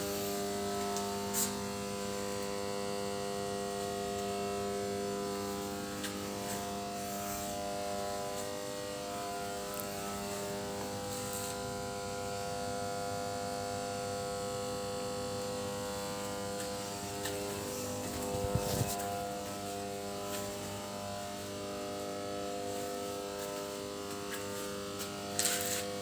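Generator running with a steady electrical hum made of several even tones, with a few short knocks.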